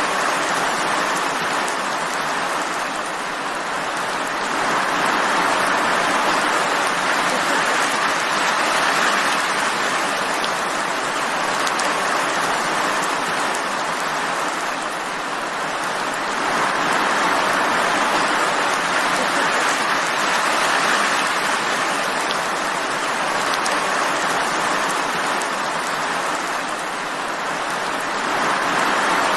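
Steady rainfall, an even hiss of many drops that swells and eases slowly every ten seconds or so.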